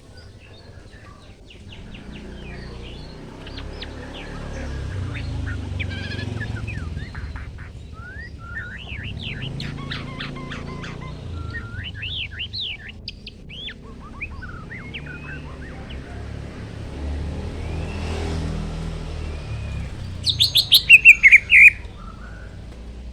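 Kept songbirds chirping and twittering in many short, quick calls, ending with a loud burst of about eight rapid, shrill notes near the end, over a low steady rumble.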